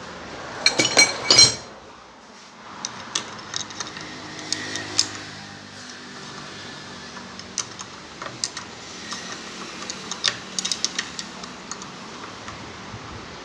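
Metal hand tools and suspension parts clinking and clanking during car repair work. A burst of loud clanks comes about a second in, then scattered light clicks and taps.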